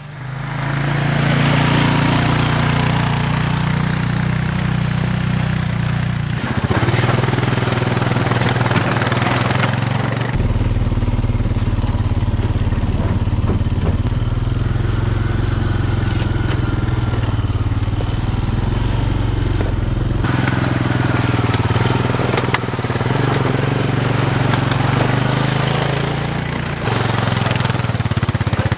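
ATV (four-wheeler) engine running steadily while riding, with a noisy rush over the engine note. The sound changes abruptly a few times, as if from one riding clip to the next.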